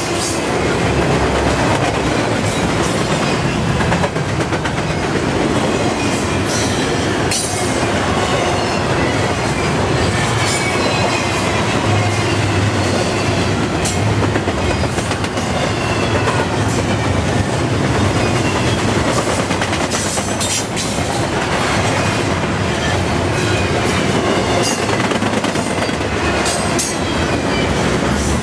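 Double-stack intermodal well cars of a freight train rolling past at speed: a loud, steady rumble of steel wheels on rail, broken by repeated clicks as the wheels cross rail joints, with faint high squeals from the wheels.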